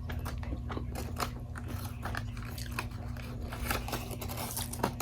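Close-up crunchy biting and chewing of crisp fried food, with many irregular crackles, over a steady low hum.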